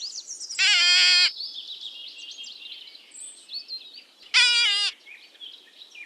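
Two loud, quavering bleats, each well under a second long, about three and a half seconds apart, over a steady background of small birds chirping.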